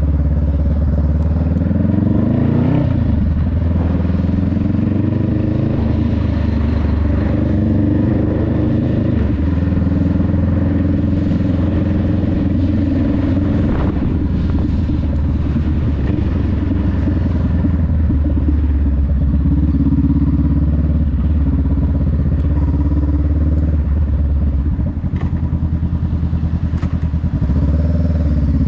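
Honda Rebel 500's parallel-twin engine running under way, its pitch rising and falling with the throttle, with a brief drop in revs near the end.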